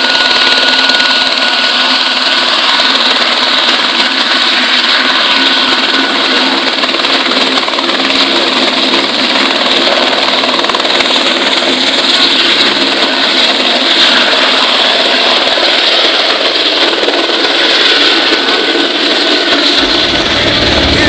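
Helicopter running close by: a loud, steady turbine whine over rotor and engine noise.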